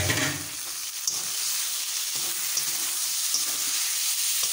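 Tomato, onion and spice masala sizzling in hot oil in a metal kadai while being stirred and sautéed with a spatula, which clicks against the pan now and then. A short louder sound comes right at the start.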